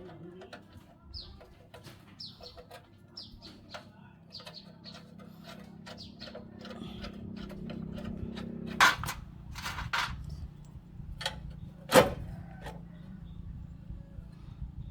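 A bird chirping a short falling note about once a second, then a steady low hum and a few sharp metallic clanks, like tools or metal parts being knocked or set down.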